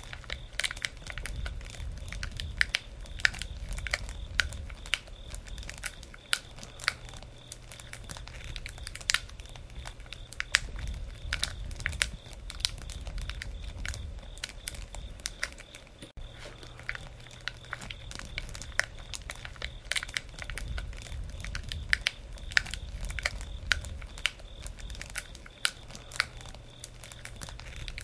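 Wood campfire crackling, with sharp irregular pops several times a second over a low steady rumble.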